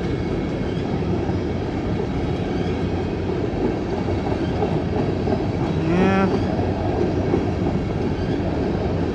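Long freight train rolling past close by, a steady rumble of cars on the rails, with a brief rising pitched squeal about six seconds in.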